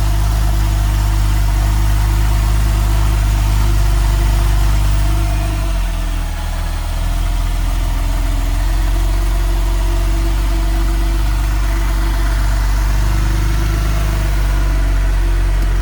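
2009 Porsche 911 Carrera 4S's flat-six engine idling just after a cold start. About six seconds in the idle shifts down and then settles into a steady lower idle as the engine warms.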